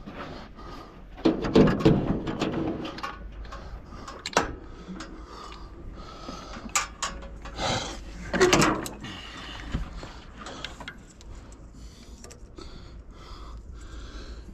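Irregular metal clunks, knocks and scrapes of hand tools working on a car engine's fasteners, with a few louder clanks scattered through.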